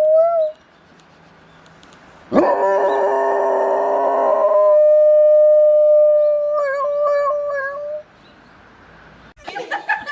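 A dog howling. One howl ends about half a second in. After a pause, a louder, fuller howl starts at about two seconds and is held steady for nearly six seconds, wavering near its end.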